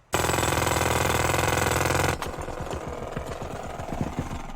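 A motorised machine starts abruptly with a loud steady drone. About two seconds in it changes to a quieter, rapid rattling clatter, then cuts off.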